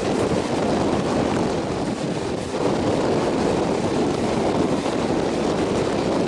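Passenger train running steadily along the track, heard from an open coach door: a continuous rush and rumble of wheels on rail, mixed with wind buffeting the microphone.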